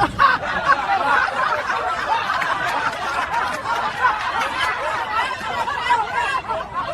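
Crowd laughter, many voices laughing at once.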